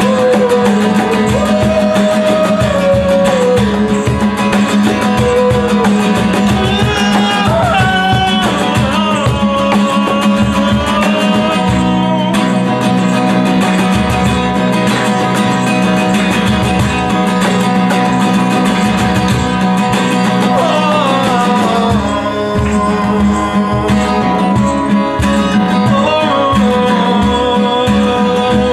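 Band music led by guitars, with a melody line that slides up and down in pitch over a continuous rhythm.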